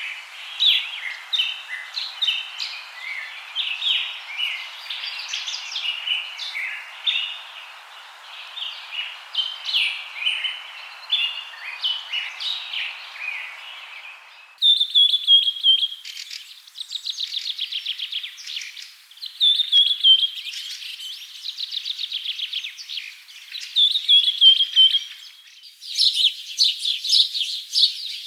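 Birds chirping and calling over a steady background hiss; about halfway the sound switches abruptly to a different set of birds giving repeated fast trills that fall in pitch.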